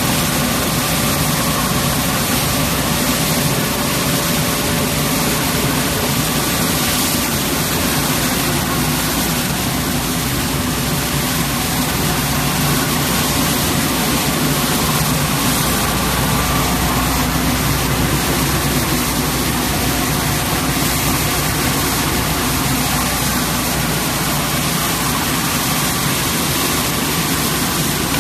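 1-ton-per-hour pneumatic rice milling machine running steadily: a loud, even rushing noise of the mill and its suction air flow, with faint steady hum tones under it.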